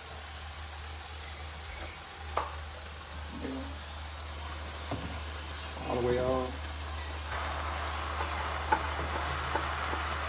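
Chicken, pork rinds and vegetables sizzling in a nonstick frying pan, with a spatula stirring and tapping against the pan now and then. The sizzle grows louder about two-thirds of the way in.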